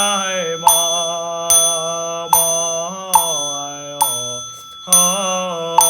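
A slow Buddhist chant: a single voice holds long, gliding notes. A small bell is struck about once a second, its high ringing tone sustaining between strikes.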